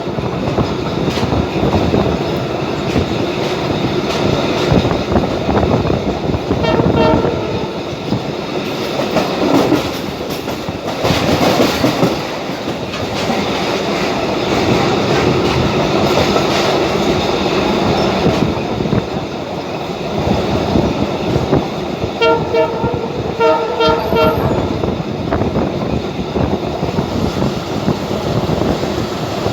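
Abu Qir line commuter train running, heard from on board: a steady rumble and rattle of the cars on the track. Short repeated horn toots sound about seven seconds in and again from about twenty-two to twenty-four seconds in.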